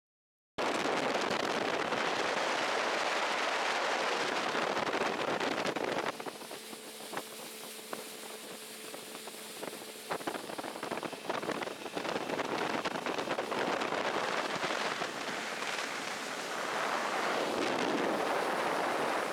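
Steady rushing noise of wind buffeting the microphone on a boat. It eases for about four seconds in the middle, where a faint low hum and a few clicks come through, then rises again.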